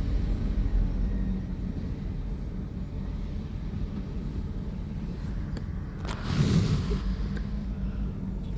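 Diesel freight locomotive and its loaded log cars rolling past with a steady low rumble. About six seconds in, a louder rush of noise swells for roughly a second.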